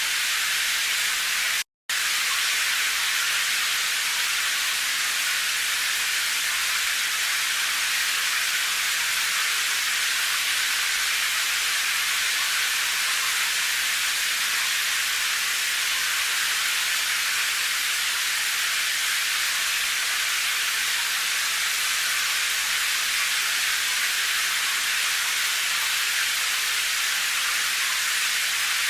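Steady, even rain hiss with no separate drops or thunder standing out. It cuts to silence for a split second about two seconds in.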